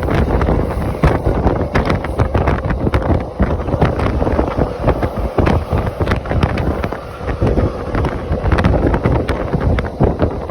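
Loud, steady wind buffeting the microphone, a heavy rumble with many small crackles running through it and a faint steady hum underneath.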